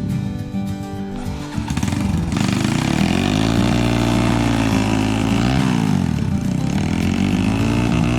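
Trail motorcycle engine revving up and down as it rides, the pitch repeatedly rising and falling, with a brief easing off in the first two seconds.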